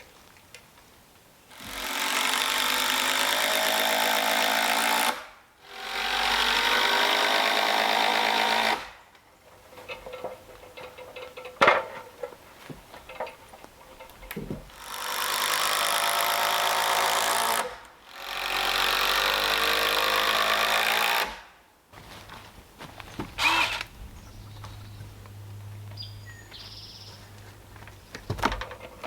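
Cordless impact driver running in four long spells of about three seconds each, driving structural screws into cedar log rafters. Knocks and clicks from handling timber in between.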